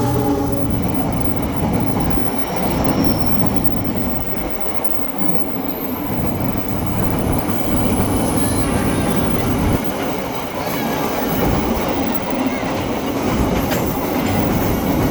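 Train passing close by: a steady, loud rumble of wheels on the rails, with faint high wheel squeal for a few seconds early in the pass.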